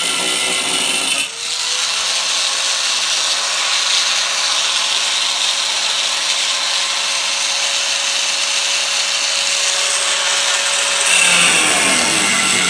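Power tool cutting or grinding the car's sheet-metal quarter panel, a steady hissing whine that dips briefly about a second in and changes near the end.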